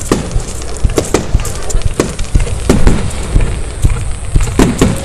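Aerial fireworks shells bursting overhead in an irregular series of sharp bangs, about one to two a second, each followed by a short echo.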